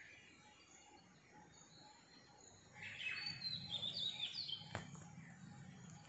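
A bird chirping: a quick run of high, gliding twitters starting about three seconds in and lasting a second and a half or so, followed by a single sharp click.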